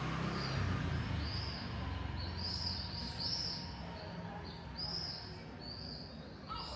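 A small bird chirping repeatedly, about ten short high chirps spread over several seconds, over a low hum of passing traffic that fades out in the first couple of seconds.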